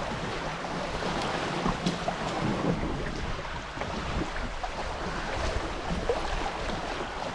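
Water rushing and splashing along the hulls of a Hobie 14 catamaran sailing downwind, with some wind noise on the microphone.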